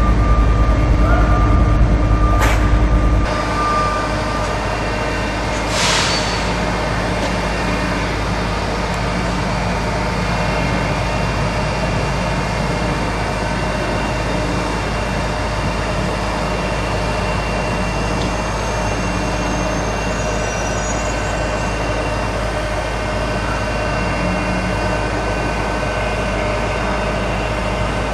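Steady drone of heavy diesel machinery and traffic. A heavy low rumble eases off about three seconds in, with a sharp click just before. A short hiss like an air-brake release comes about six seconds in.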